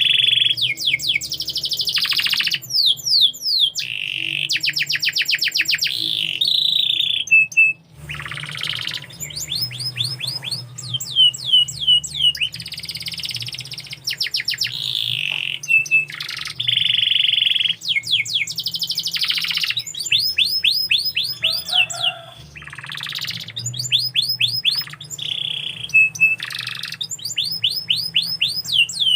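Domestic canary singing a long, continuous song of fast trills and rolls of rapidly repeated notes, with a brief pause about eight seconds in.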